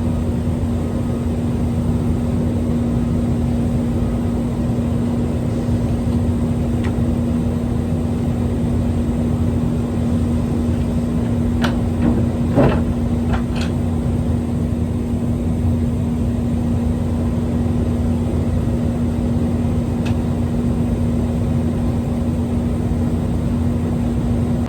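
Semi-truck's diesel engine running steadily, a constant low rumble with an even hum; a few short clicks about halfway through.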